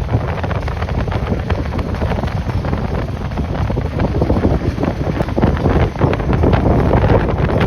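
Strong gusty wind buffeting the microphone, a loud low rumbling roar that grows stronger about halfway through.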